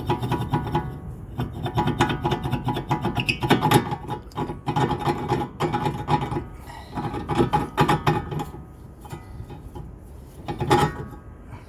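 Metal being scraped and rasped on brake parts in repeated bursts of quick strokes, with a faint metallic ring.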